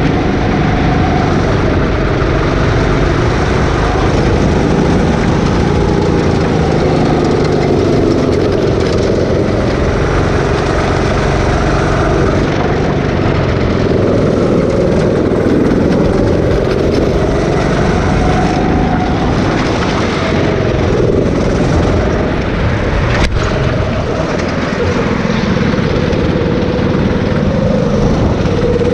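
Rental go-kart engine running continuously, its pitch rising and falling repeatedly as the throttle opens and closes. A single sharp click comes near the end.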